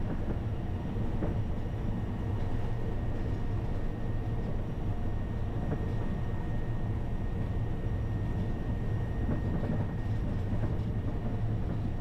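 Cessna Caravan's single PT6A turboprop engine running steadily at low power after landing: a constant low drone with a faint steady high whine above it.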